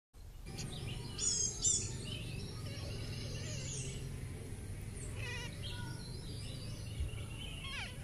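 Birds chirping and trilling in short bursts over a steady low background noise. The loudest chirps come about a second in, and a quick falling call comes near the end.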